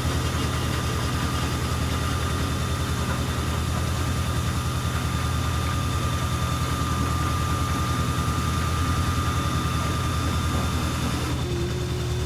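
Car engine idling steadily, with a steady high whine over it that stops near the end.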